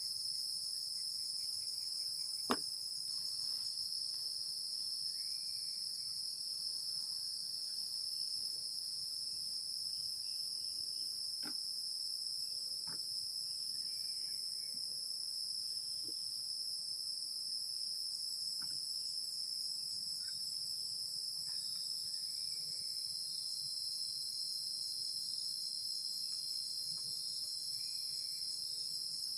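Steady, high-pitched chorus of insects chirring, with a few short, sharp clicks or knocks scattered through it, the loudest about two and a half seconds in.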